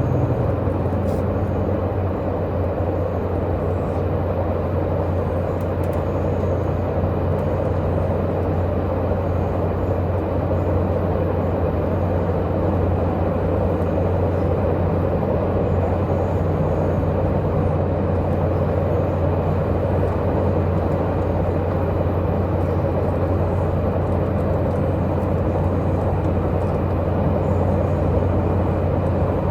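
Diesel multiple-unit express train running at steady speed, heard from inside the passenger car: the underfloor diesel engine's steady hum under continuous wheel and rail noise.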